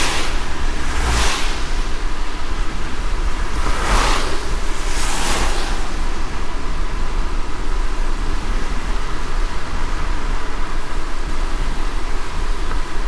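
Car driving in light rain: steady hiss of rain and wet road with a low rumble, and four brief swishes in the first half, two close pairs.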